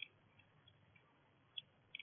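Near silence broken by three short, faint chirps from small birds at a feeder: one at the start and two close together near the end.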